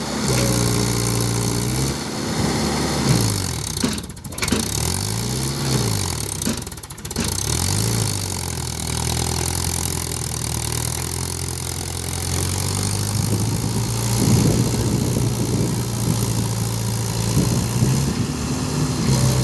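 Tractor diesel engine revving under strain. The revs rise and fall several times over the first eight seconds, then hold fairly steady.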